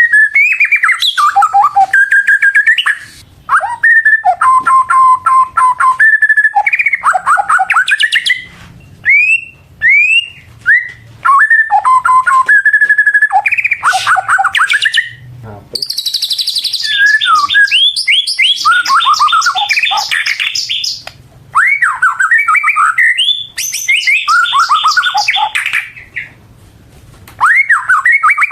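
White-rumped shama (murai batu) singing loud, constant 'gacor' song: varied phrases of sweeping whistles and rapid runs of repeated notes, broken by brief pauses.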